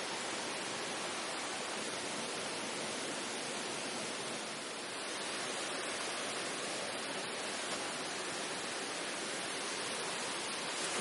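Steady, even rushing noise with no distinct events, dipping slightly about halfway through.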